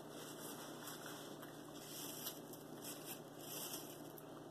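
Faint sounds of someone chewing food, with soft crackly mouth noises in the middle of the stretch, over a steady low room hum.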